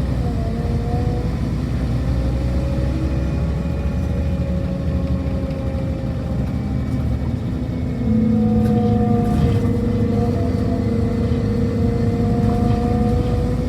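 Scania Lahti Scala K230 UB city bus driving, its engine giving a steady high whine over a low rumble. It grows louder about eight seconds in.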